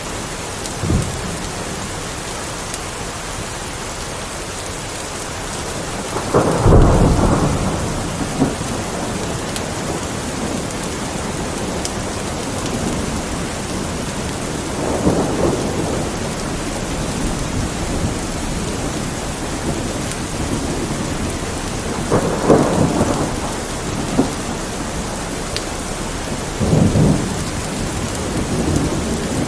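Steady rain with rolls of thunder: four low rumbles swell and fade over the rain, the loudest about six seconds in.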